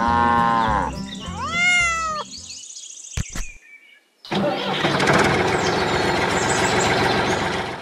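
Cat meowing twice, a sound effect, over background music with a steady low beat. After a short gap about four seconds in, a steady rough noise takes over.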